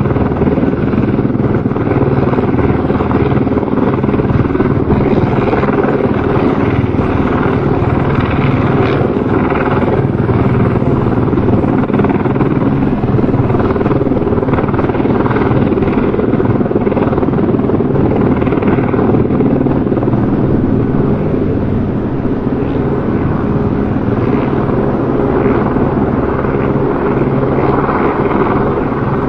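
Helicopter rotor and engine noise, a steady dense thrum of the blades beating the air, holding at an even level with a slight drop in loudness after about twenty seconds.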